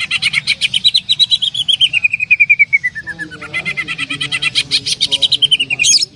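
Cucak ijo (green leafbird) singing a long 'tembakan' run: a fast, unbroken string of sharp repeated notes that slides down in pitch through the middle and climbs back up. It ends in a quick upward sweep and stops abruptly near the end.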